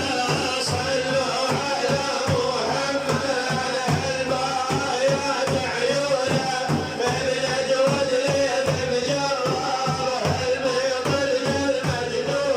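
A man's voice singing a devotional Arabic chant, with a steady rhythm of drum beats.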